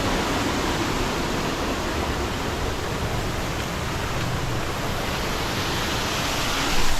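Waterfall rushing in a steady, even roar of falling water. A brief louder bump comes near the end.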